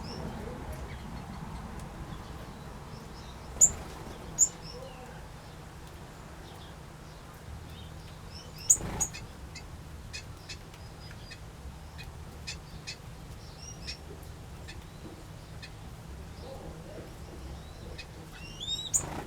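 Small aviary birds (finches and waxbills) chirping: scattered short, high calls, with a few louder ones about four seconds in, around nine seconds and near the end, over a steady low hum.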